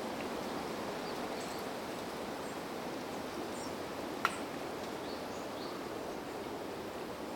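Steady wind noise in the trees, with a few faint, short, high bird calls scattered through it. One sharp click sounds about four seconds in.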